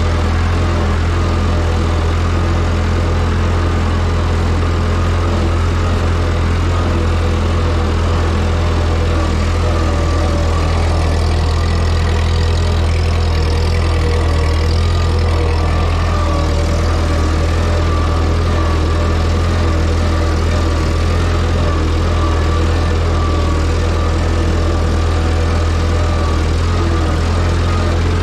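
The four-cylinder flathead engine of a Ford 9N/2N tractor running steadily.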